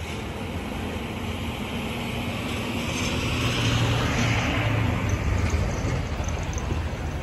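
Iowa Interstate freight train's tank cars rolling slowly through the yard with a low rumble, which swells for a couple of seconds midway and then eases.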